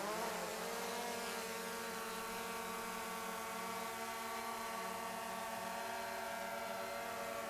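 DJI Air 2S quadcopter's motors spinning up, their whine rising in pitch right at the start, then running at a steady pitch with several tones layered together.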